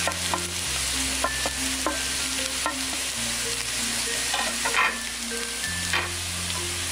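Fried potato slices, onions and green chillies sizzling in hot oil in a non-stick frying pan, a steady hiss with a few sharp clicks.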